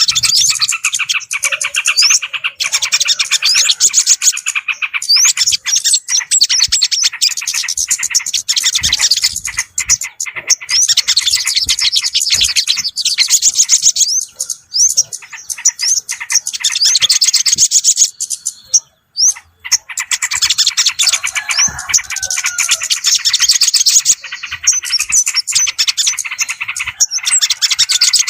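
Bird-lure recording of small songbirds chirping rapidly and without let-up, a dense high-pitched twittering broken by short pauses about halfway and two-thirds through. It is a lure call, played to draw in yellow-vented bulbuls and other small birds.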